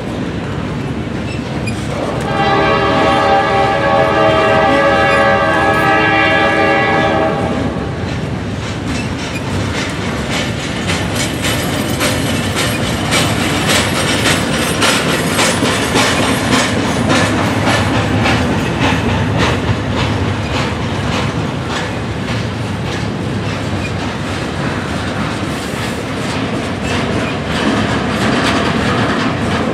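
Double-stack container train rolling past, its wheels clacking over the rails with a steady rumble. A train horn sounds one long blast from about two seconds in until about seven and a half seconds.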